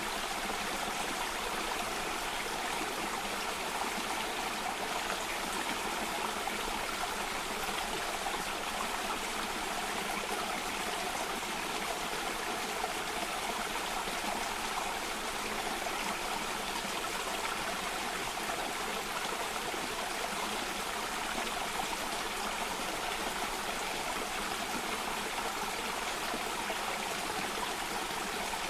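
Stream water running over small cascades, a steady, unbroken sound of flowing water.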